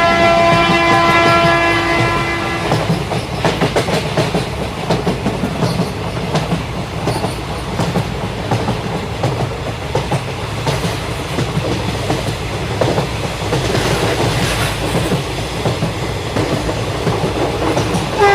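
Express train: the locomotive's horn sounds a steady chord that stops about three seconds in, then the wheels clatter over the rail joints in a rapid clickety-clack. The horn starts again right at the end.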